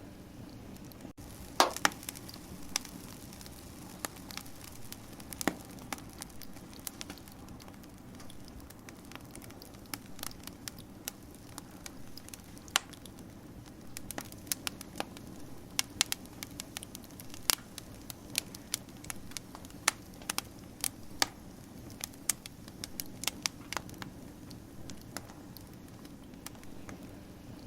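Wood fire crackling: irregular sharp pops and snaps, a loud cluster about two seconds in and denser snapping in the second half, over a steady low hiss of burning.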